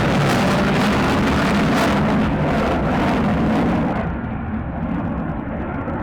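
F-35 fighter jet's engine roaring on takeoff, a loud, steady rush over a deep rumble; the hiss at the top of the sound drops away about four seconds in as the roar eases.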